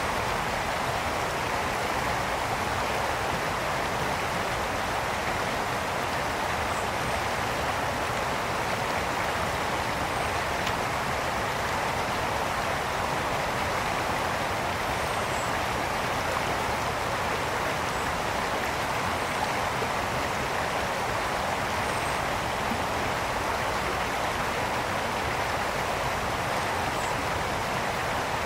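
Brook water flowing steadily, a constant rushing and babbling.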